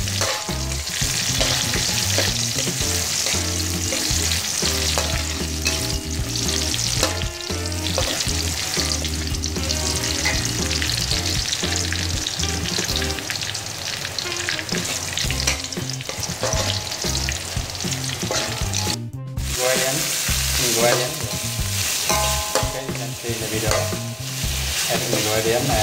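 Chopped garlic and chili sizzling in hot oil in a wok, with a metal spatula scraping against the pan as it is stirred. The sound cuts out for an instant about three-quarters of the way through.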